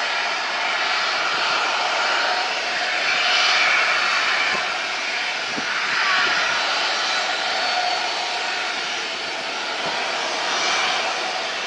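Jet airliner's engines running, a steady rushing noise that swells and eases slightly.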